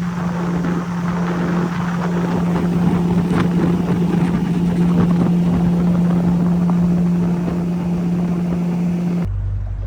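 Boat motor running at a steady pitch, with rushing wind and water noise around it. Near the end it cuts off abruptly and a quieter, lower hum takes its place.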